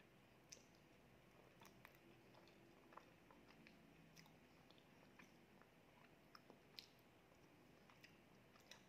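Faint, close-miked chewing of soft honey cream cheese cake: scattered wet mouth clicks and smacks at irregular intervals.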